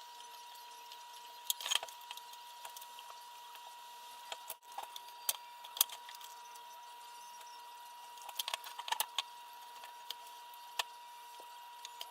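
Small hard parts and tools being handled during quadcopter assembly: light clicks and taps come in a few short clusters. A steady faint high tone runs underneath.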